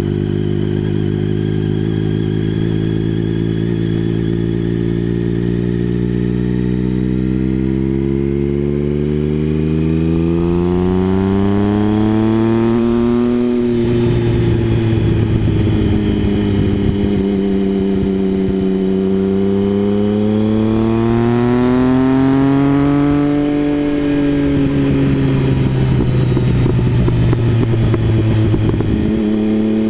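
Triumph Speed Triple 1050's inline three-cylinder engine through a Mivv exhaust, climbing slowly in revs for over ten seconds and then dropping sharply. It holds steady, rises and falls again, and drops once more near the end.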